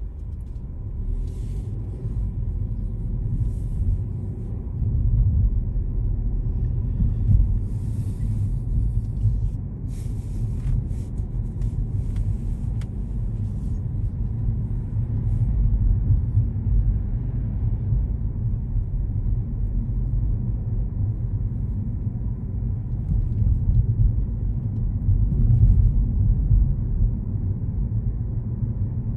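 Steady low rumble of road and wind noise from a moving car, with faint brief crackles in roughly the first half.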